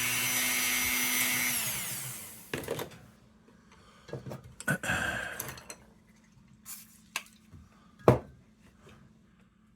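Dremel rotary tool running at speed, switched off about a second and a half in and winding down with a falling whine. A few scattered knocks and clicks of handling follow, the loudest near the end.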